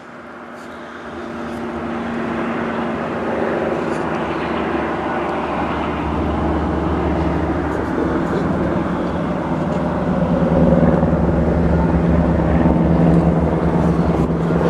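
Steady engine drone that swells in over the first couple of seconds and then holds loud, with a low hum under it.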